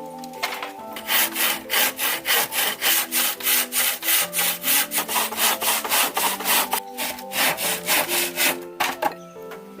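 Hand saw cutting through wood in quick, even back-and-forth strokes, about four a second, starting about a second in and stopping shortly before the end. Background music plays underneath.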